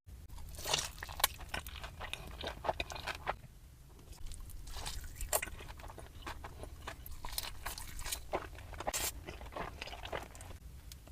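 Close-up mouth sounds of someone biting and chewing crispy fried chicken: many irregular sharp crunches of the breaded crust, with a short pause about four seconds in.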